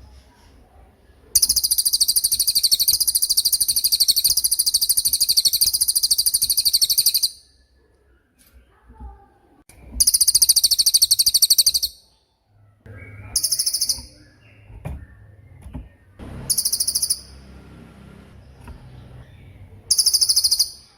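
A cililin songbird singing its rapid 'tembakan' trills, very high-pitched. One long trill of about six seconds is followed by four shorter bursts, each stopping abruptly.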